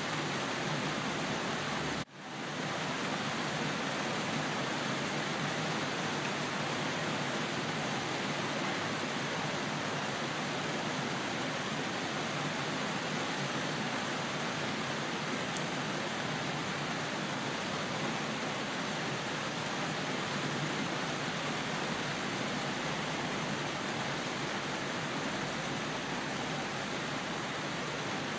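Steady rain, an even hiss with its energy spread from the low mids up through the highs. Near the start it drops out abruptly for a split second and comes back, like a splice in the recording.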